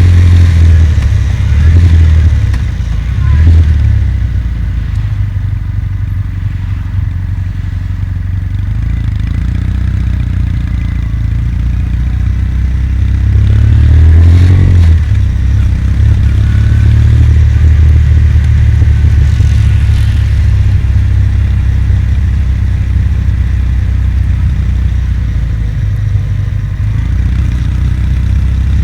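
Kawasaki W800's air-cooled parallel-twin engine running under way, a steady low drone with the revs rising twice, about 3 seconds in and again about 14 seconds in.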